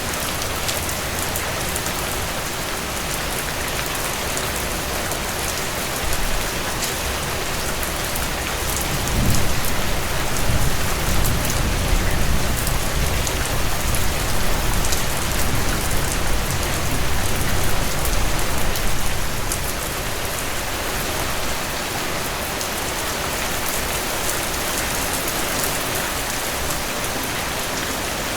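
Heavy rain falling steadily on a surface, a dense even hiss of drops. About nine seconds in, a low rumble swells under the rain and fades again about ten seconds later.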